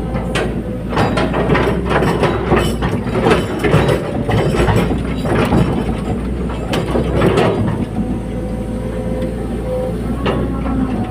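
Excavator engine running steadily under a dense run of metallic clanking and rattling that lasts about seven seconds, with one more clank near the end.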